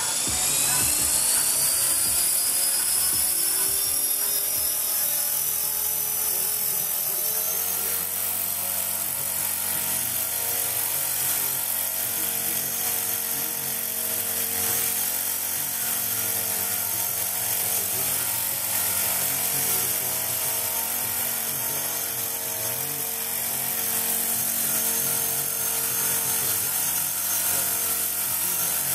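Electric Blade 400 RC helicopter spooling up, its E-flite 420 motor and rotor whine rising in pitch over the first seven seconds or so, then running steadily at hover speed.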